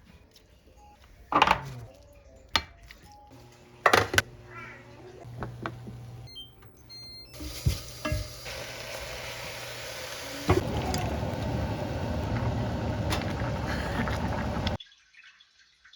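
Clinks and knocks of dishes and utensils, a few sharp ones spaced a couple of seconds apart, then a steady hissing, sizzle-like noise for about four seconds that cuts off suddenly.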